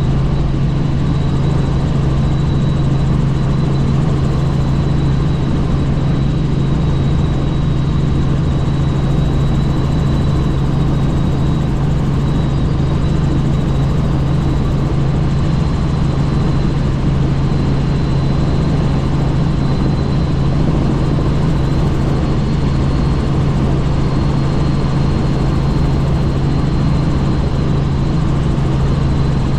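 Helicopter in flight: a steady low drone of rotor and engine, with a thin high whine held above it.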